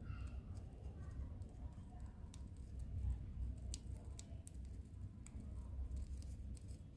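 Budgie busy with its beak: irregular sharp clicks from pecking and nibbling, with a short warbling chirp in the first second.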